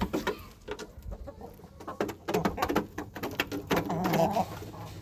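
Birds calling in a fowl pen: low cooing and clucking, strongest a little before the end, with scattered clicks and knocks throughout.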